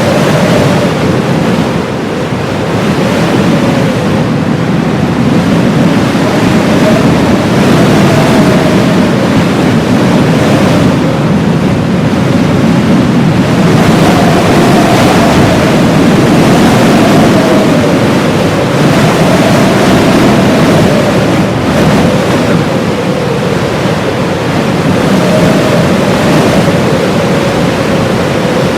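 Loud blizzard wind blowing in a continuous rush that swells and eases, with a howl that wavers up and down in pitch.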